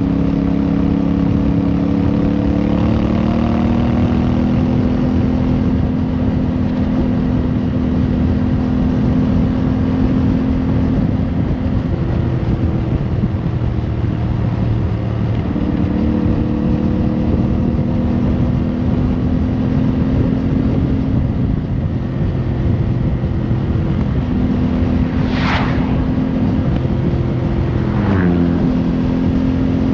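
Motorcycle engine running under way with wind and road noise, its pitch rising early on and dropping briefly near the end as it slows. A short sharp sound cuts through about four seconds before the end.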